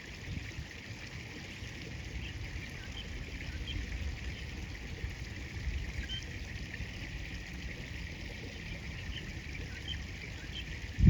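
River water flowing and trickling steadily, with a low rumble and faint, short high chirps scattered through it.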